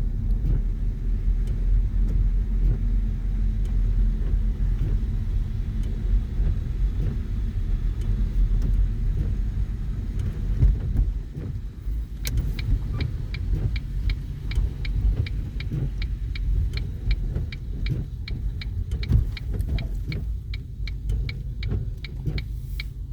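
Steady low rumble of a car's engine and tyres heard from inside the cabin while driving. About halfway through, a turn-signal indicator starts ticking evenly, a little over two ticks a second.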